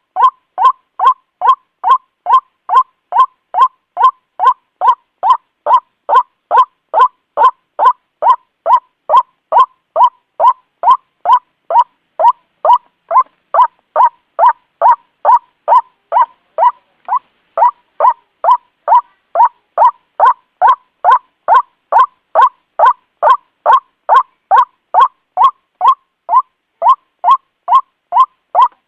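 White-breasted waterhen calling over and over, about two short notes a second, each dropping in pitch, in an even, unbroken rhythm.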